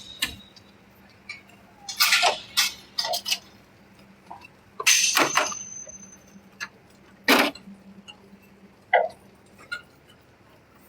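Scattered short scrapes and clinks of hand-washing gear, pads and brushes, working on an aircraft's skin, over a faint steady hum. One scrape about five seconds in leaves a brief high ring.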